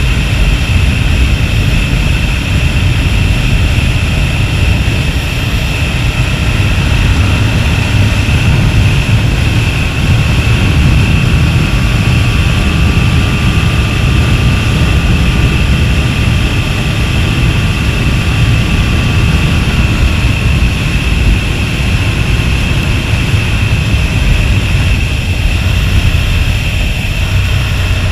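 Aprilia RSV V-twin motorcycle being ridden at a steady pace, its engine drone under a heavy rush of wind on the microphone. It holds steady throughout, with only a slight slow shift in pitch around the middle.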